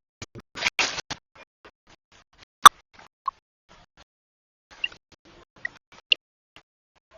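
Scattered clicks and knocks, with a short scraping noise near the start and one sharp, loud click about two and a half seconds in.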